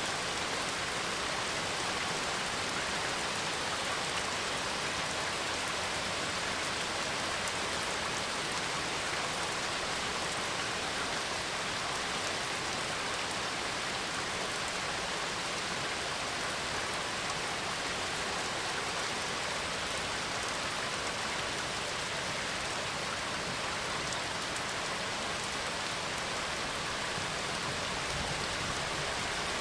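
Steady rainfall, an even, unbroken hiss of rain with no single drops or claps standing out.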